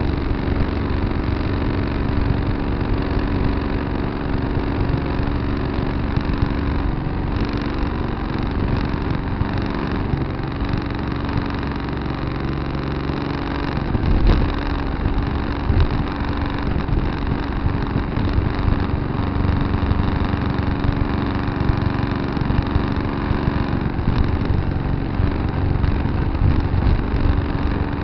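Tractor engine running steadily, with a single short knock about halfway through.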